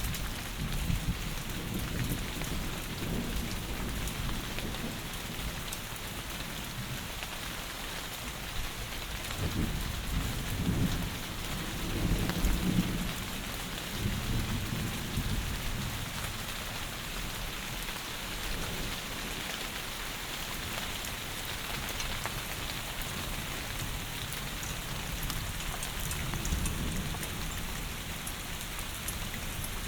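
Steady heavy rain falling, with low thunder rumbling in slow swells through it, loudest a little before halfway.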